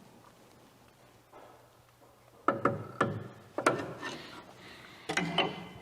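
Metal tools and parts being handled during rear brake and axle disassembly: a handful of sharp, irregular metallic clanks, each with a brief ring, starting a couple of seconds in.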